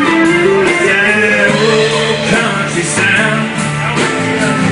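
Country band playing live: guitars over bass and drums, leading from the end of a verse into the chorus.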